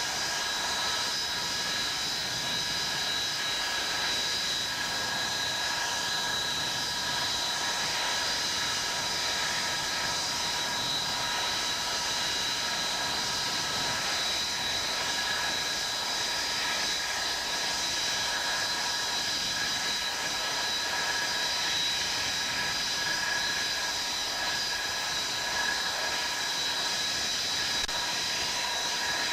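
Bristol Olympus turbojet engines of an Avro Vulcan B2 running steadily on the ground: a constant rushing noise with a high, steady compressor whine over it.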